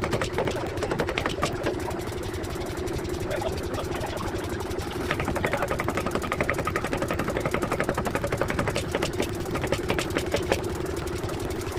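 Forging machinery running at a rapid, even rhythm: a fast train of many metallic blows a second over a steady machine hum, typical of a power hammer working a hot half-shaft blank.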